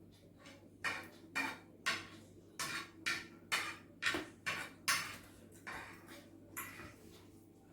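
Eating noodles close to the microphone: a quick run of about ten short, noisy mouthfuls and slurps over some six seconds, each sharp at the start and fading fast.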